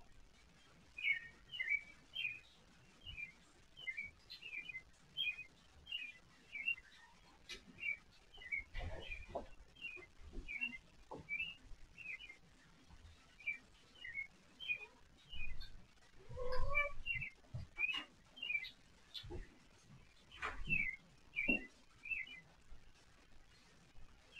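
A bird chirping over and over, short high calls about once or twice a second, faint. A few soft knocks and one brief lower call break in about two-thirds of the way through.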